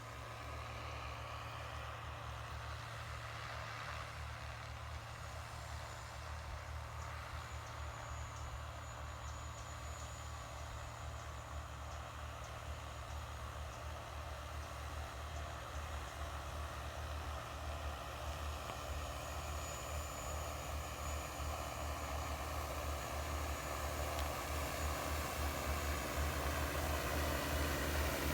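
Agricultural spraying drone's rotors running with a steady buzzing hum, slowly growing louder as it comes closer.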